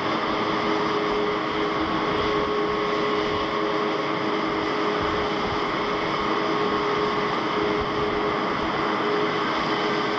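Jet airliner engines running steadily: an even rush with a held whine over it, neither rising nor falling.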